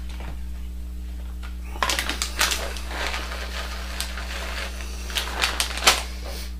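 A spoon scraping and knocking against a bowl as it stirs thick, quickly thickening chocolate fudge mixture, in irregular strokes starting about two seconds in. A steady low electrical hum sits underneath.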